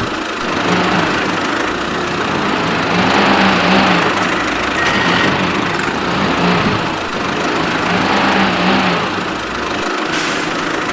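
Small motor of a DIY mini tractor machine running steadily, with a wavering hum.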